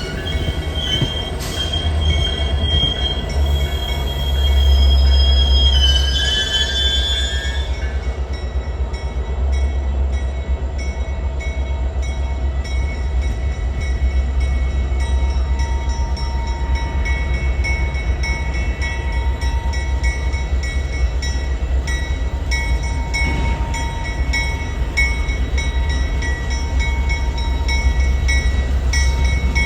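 Train passing on the rails: a steady low rumble of wheels with high-pitched wheel squeal, loudest through the first seven seconds and coming back more faintly later on.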